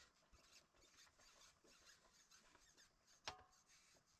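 Near silence: faint rustling and small clicks, with one sharper click about three seconds in.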